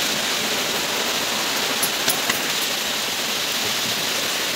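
Rain falling steadily, a dense even hiss, with a few faint ticks about two seconds in.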